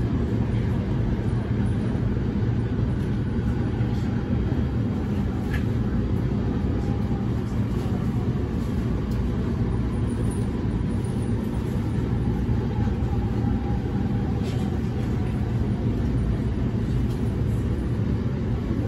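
Cabin running noise of a JR East E231 series 1000 commuter train rolling into a station: a steady low rumble of wheels on rail, with a faint whine and a few light clicks.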